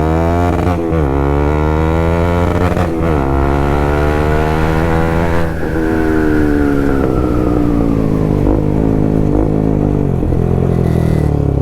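Bajaj Pulsar NS200's single-cylinder engine engine-braking as the motorcycle slows without the brakes. The revs fall steadily, jumping up briefly at downshifts about a second and three seconds in.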